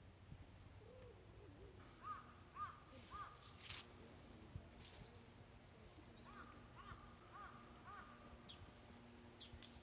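Faint crows cawing: a run of three caws, then another run of four or five a few seconds later.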